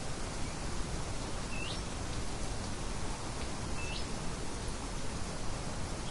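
Steady hissing nature ambience with a bird giving two short calls, each sweeping upward in pitch, about two seconds apart.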